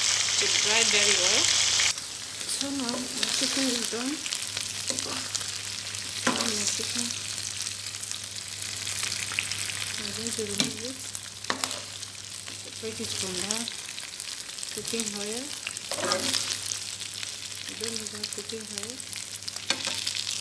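Diced chicken sizzling as it fries in oil in a non-stick pan, loud for the first couple of seconds and then quieter and steady. A plastic spoon stirs through the pieces, scraping the pan with a few sharp knocks against it.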